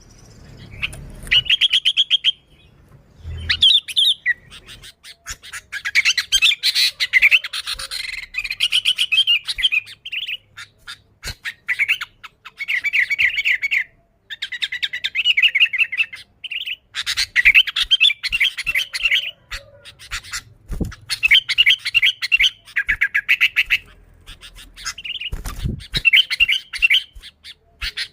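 Sooty-headed bulbul (kutilang) singing, phrase after phrase of rapid chattering notes a second or two long with short pauses between them. A few brief low thumps come in, one near the end.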